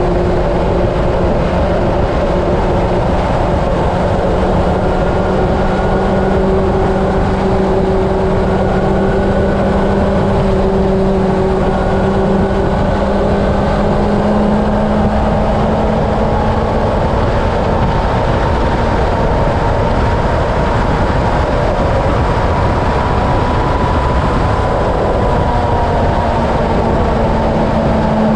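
Honda CB750's inline-four engine droning at a steady highway cruise, its pitch creeping up slightly partway through, under heavy wind noise on the microphone.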